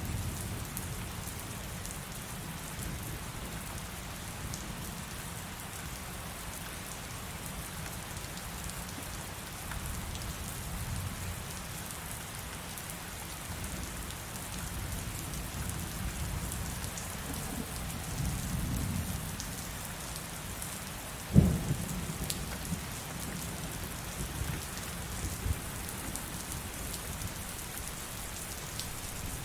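Heavy rain falling steadily, with low rolling thunder underneath. About two-thirds of the way through, one sharp thunderclap is the loudest moment, and it rumbles away afterwards.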